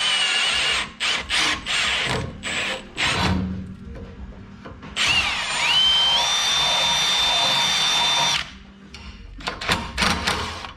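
Power drill run in several short bursts, then held for one long run of about three seconds with a whine that climbs and then holds steady, then a few more short bursts near the end.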